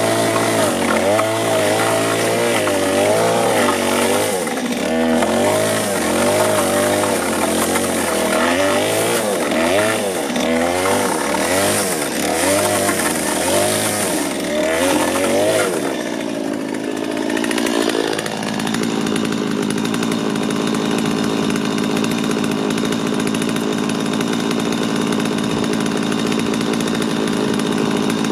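Handheld power tool with a brush attachment scouring out the hollow inside of a fir log, its motor pitch wavering up and down as it is pressed into the wood. After a brief dip near the middle it settles into a steady, higher-pitched run.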